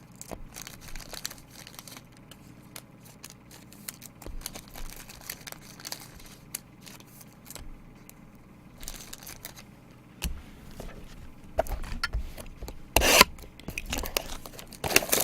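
Baseball card packs being opened and the cards handled: quiet scattered rustling and clicks of wrapper and card stock, growing louder near the end with a sharp crinkle about 13 seconds in.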